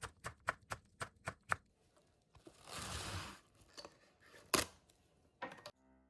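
Kitchen knife chopping on a cutting board, about four even strokes a second, followed by a rustling slide of cut pieces and a single sharp knock.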